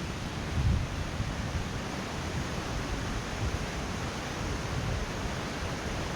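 Steady rush of falling water from the Putna waterfall. A brief low rumble of wind on the microphone comes about a second in.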